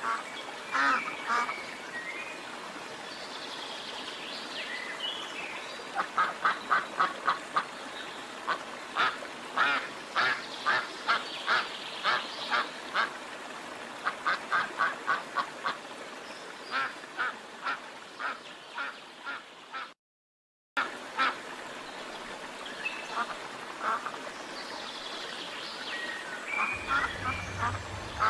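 Ducks quacking: single quacks and quick runs of several, some a few to the second. The sound cuts out briefly about twenty seconds in.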